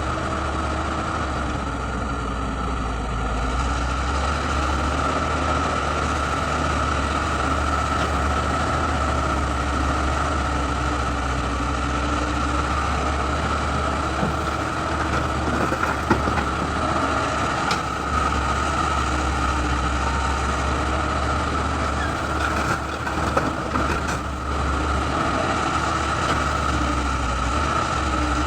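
Excavator's diesel engine running steadily with a constant whine over a low rumble, and a few short knocks in the second half.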